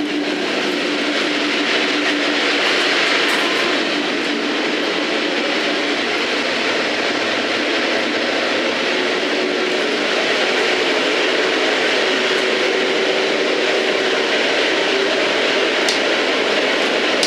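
An old train running steadily on the rails: continuous, even running noise with faint steady hums underneath and a single sharp click near the end.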